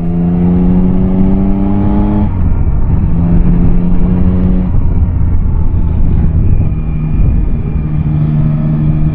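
Yamaha Tracer 9's inline three-cylinder engine pulling under acceleration, its pitch rising for about two seconds. It then drops away and comes back twice at a steadier pitch, over a constant low rush of wind.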